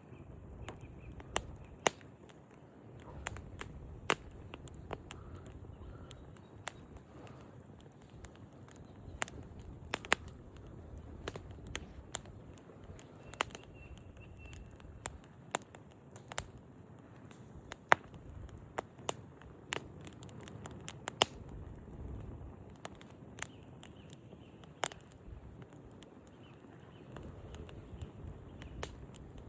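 Wood campfire crackling: irregular sharp pops and snaps, about one or two a second, over a steady low rumble of the flames.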